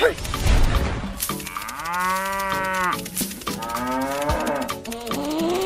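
A cow mooing three times. The first moo, starting about a second in, is the longest, and the next two follow in quick succession.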